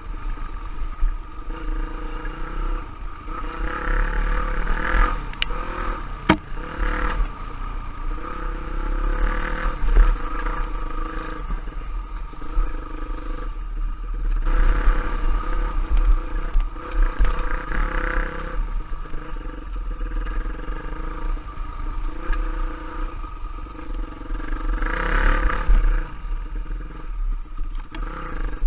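Off-road trail bike engine running under way, its revs rising and falling every few seconds, with a few sharp knocks and a steady deep rumble underneath.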